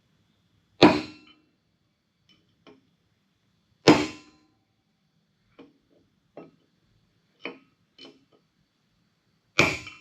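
A hammer striking metal to drive a bearing race out of a car's front hub and rotor assembly: three hard ringing blows several seconds apart, with lighter taps between them.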